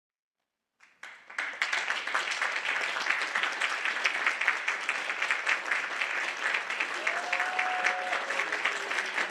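Audience applauding, a dense unrhythmic clapping that starts suddenly about a second in after silence.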